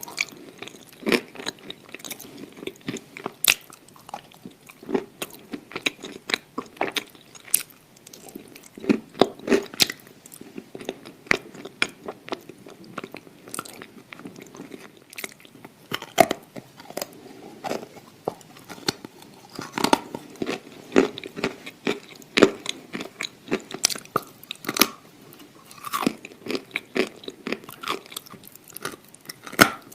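A person biting and chewing crunchy edible clay close to the microphone: many irregular crisp cracks and crunches, some bites louder than others.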